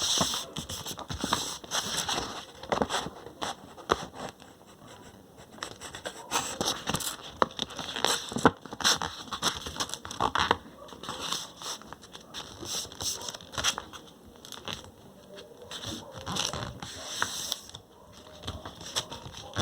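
A sheet of paper being handled and folded, with irregular rustling, crinkling and sharp creasing sounds that come in bursts with short pauses.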